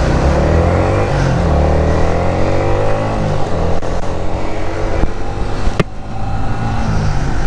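Motor vehicle engines on the road, loud and steady, with the pitch sliding down around the middle as a vehicle passes.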